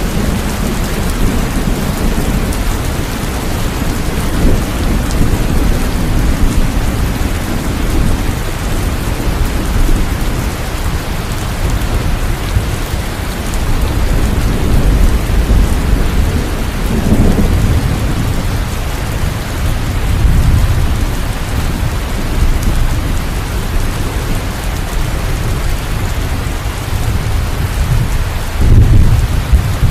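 Steady heavy rain with rolling thunder rumbling underneath. The rumble swells a few times, loudest near the end.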